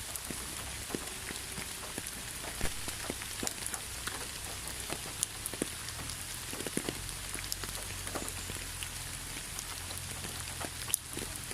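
Rain falling steadily in a constant hiss, with many single drops ticking close by.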